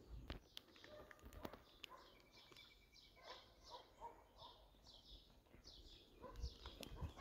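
Faint birdsong: many short, high chirps, repeated over and over, with a few sharp clicks in the first couple of seconds.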